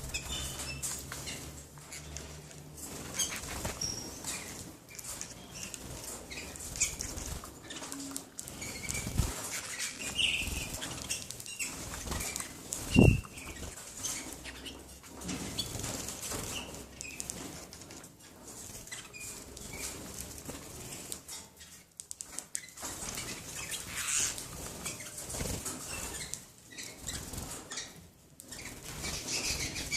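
Canaries flapping their wings, with scattered short chirps and one louder thump about halfway through.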